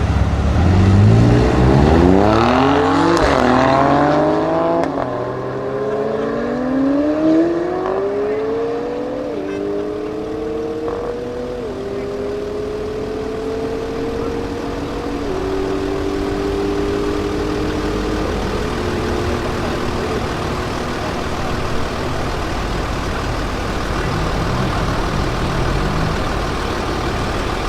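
McLaren 720S's twin-turbo V8 with a Capristo exhaust at full-throttle acceleration, its pitch climbing through gear after gear with a quick drop at each upshift. It is loudest in the first few seconds and fades as the car pulls away, until the engine is only faint near the end.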